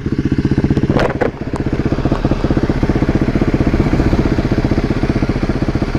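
Motorcycle engine running steadily, close by, with an even pulsing beat. A couple of short clicks come about a second in.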